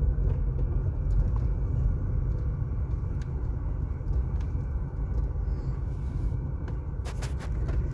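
Car driving on asphalt: a steady low rumble of tyres and engine. A few sharp clicks come near the end.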